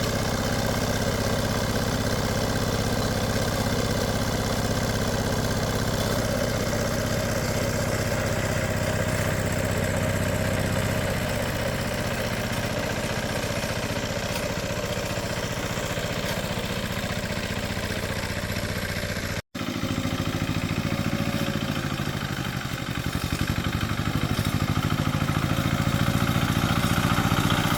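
Engine running steadily, with a brief dropout about two-thirds of the way through, then running on slightly louder near the end.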